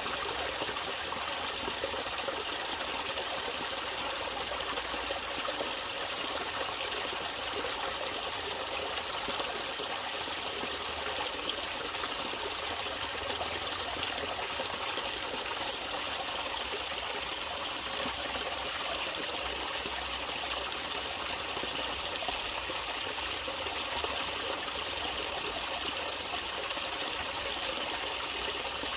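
Natural running water trickling and splashing steadily, an even rush that stays the same throughout.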